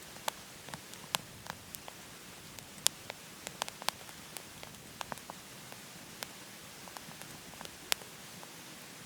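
Wood fire crackling inside a wood-burning stove: irregular sharp pops and snaps of burning wood, some loud, over a steady hiss.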